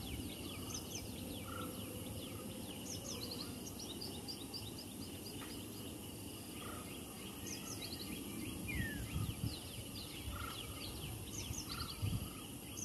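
Outdoor ambience: small birds chirping over and over in short, high calls above a steady background noise.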